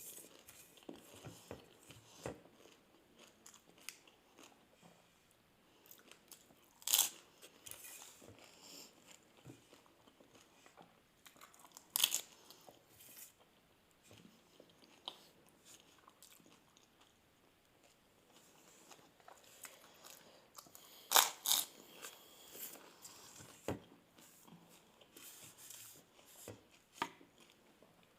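Crisp fuchka (pani puri) shells topped with yogurt being bitten and chewed, with soft chewing throughout and a few loud, sharp crunches spread across the stretch.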